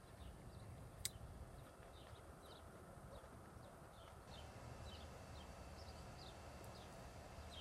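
Near silence outdoors with faint, irregular high chirps of small birds in the distance, a single sharp click about a second in, and a faint steady high tone joining about halfway through.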